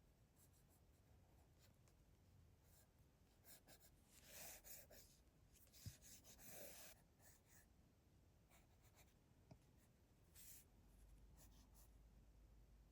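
Faint scratching of a drawing tool on sketchbook paper in short strokes, busiest in the middle, with one small tap about six seconds in.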